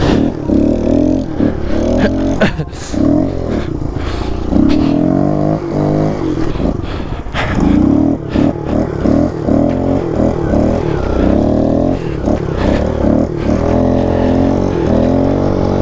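Small pit bike's single-cylinder engine being ridden close by, revving up and dropping back again and again as the throttle is worked, with scattered clicks and scrapes.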